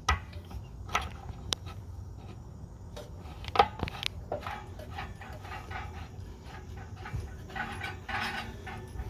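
Scattered clinks and knocks of metal fittings as flexible connector lines are fitted onto a water heater, with a dog whining near the end.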